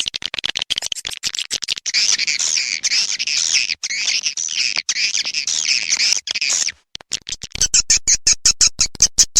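Recorded swiftlet calling track, the lure sound used to draw edible-nest swiftlets to a bird house. Rapid clicking gives way about two seconds in to a busy chirping twitter. After a short break near the seven-second mark the rapid clicking returns.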